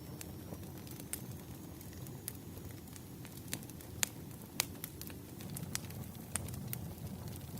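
Wood fire burning: a low steady rumble of flames with irregular sharp crackles and pops from the firewood, the loudest about halfway through.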